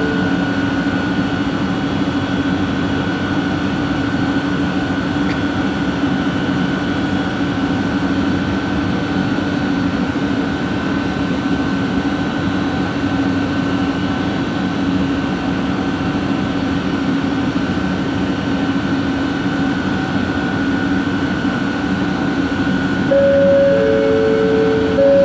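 Bombardier Innovia ART 200 train running at a steady pace, its linear-induction motor drive giving a steady whine of several held tones over the running noise. Near the end a louder pair of tones comes in, the lower one starting and stopping.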